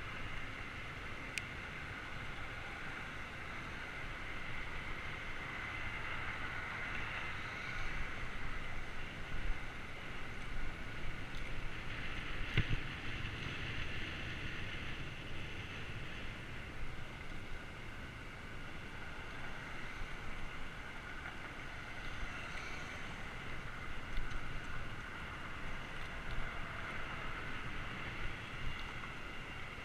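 Steady rush of wind and rolling noise from a bicycle being ridden along a paved path, with a couple of brief clicks, one near the start and one about halfway through.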